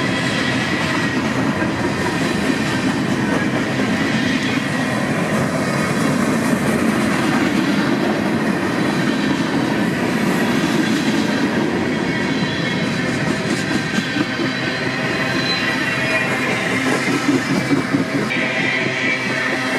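Freight train rolling steadily past, its wheels clattering on the rails with a thin steady squeal.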